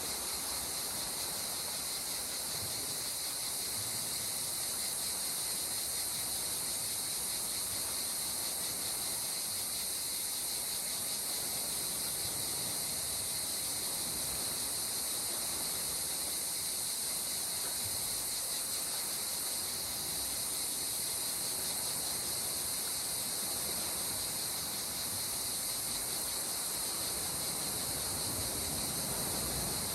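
A steady, unbroken chorus of insects, high-pitched, over a soft, even wash of sea water.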